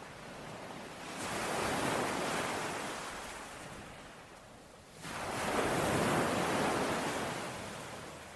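Ocean waves washing onto the shore: two waves, each swelling up and then slowly fading, the second arriving more suddenly about five seconds in.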